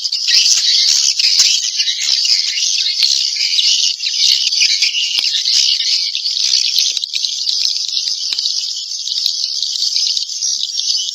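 Swiftlet calls, a dense, unbroken chorus of high twittering chirps. It is an Indonesian 'inap' swiftlet sound, played in swiftlet houses to draw the birds in to roost and nest.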